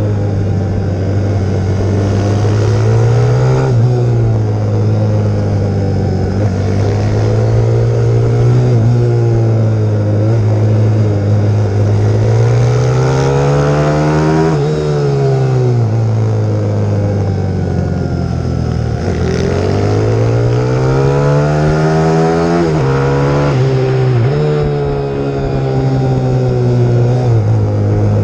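YX150 pit bike's single-cylinder four-stroke engine being ridden hard, revving up and down through the gears. The pitch climbs and falls several times, with quick dips at the gear changes and a longer fall as it slows midway.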